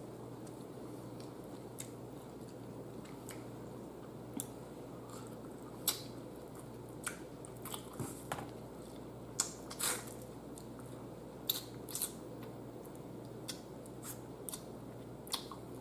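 Close-up eating sounds: chewing with scattered sharp mouth clicks and smacks, over a steady low hum.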